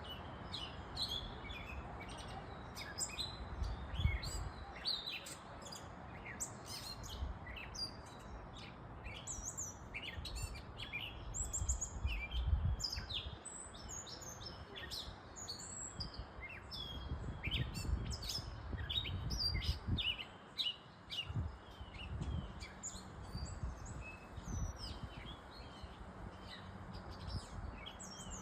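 Many birds chirping and singing at once in a sunrise dawn chorus: dense, overlapping short high calls and trills. Low rumbling swells underneath now and then.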